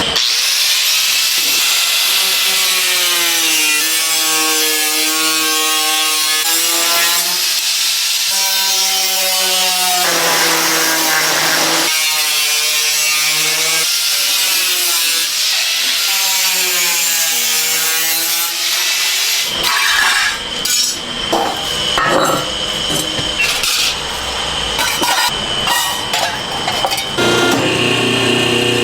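A power tool cutting or grinding, with a pitched whine over a hiss that sags and recovers every second or two as it bites. About two-thirds of the way in it gives way to irregular clatter and knocks.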